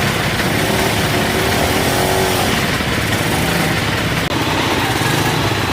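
Off-road enduro motorcycle engine running, loud and steady.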